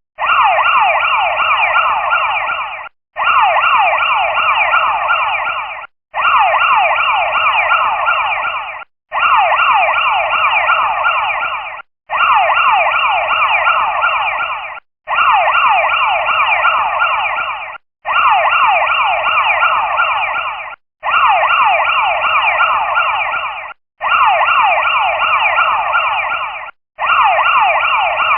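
Electric school bell ringing in repeated bursts of about three seconds, each broken by a very short pause, about ten times over, each burst fading slightly toward its end.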